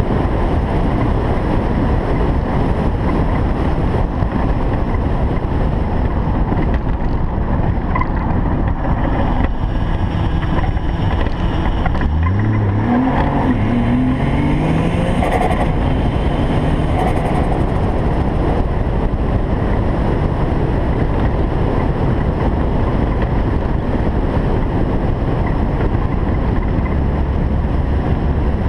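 Heavy rushing wind noise on the microphone, with a single-turbo Toyota Supra's engine accelerating, rising in pitch for a few seconds about twelve seconds in.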